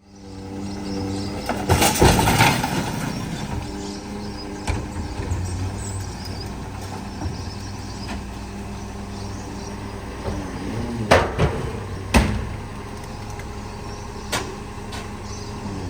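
Bulk waste garbage truck's engine running steadily, with a loud clattering burst about two seconds in and two sharp bangs near the eleven- and twelve-second marks.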